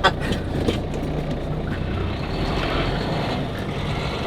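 Semi-truck's diesel engine running with road noise, heard from inside the cab; the road noise grows louder about two seconds in.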